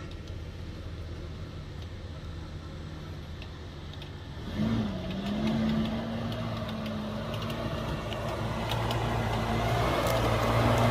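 First-generation Isuzu Trooper's engine running. About four and a half seconds in, its note picks up and then holds steady, and it grows gradually louder.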